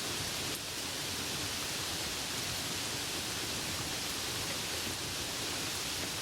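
Steady rain falling, an even hiss without distinct drops.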